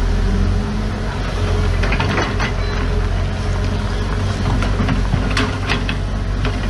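Heavy diesel construction machinery running steadily at a low pitch, with several sharp metallic clanks about two seconds in and again around five to six seconds in.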